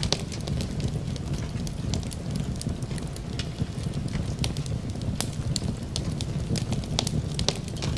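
Fireplace fire crackling, with irregular sharp pops and snaps over a low steady rumble.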